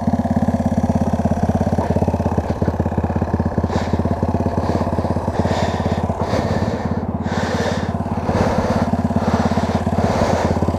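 Small single-cylinder motorcycle engine running at a steady speed, with a fast, even firing beat.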